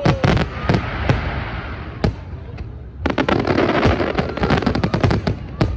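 Aerial fireworks bursting in a rapid, irregular run of sharp bangs over a crackling haze, with a dense volley of bangs and crackles starting about three seconds in.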